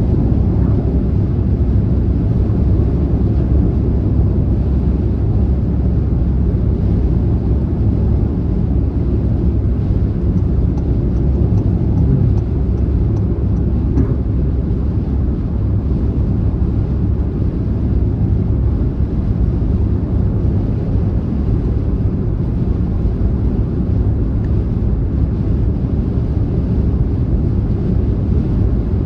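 Car driving at speed on a motorway: a steady, deep rumble of road and tyre noise that holds constant throughout.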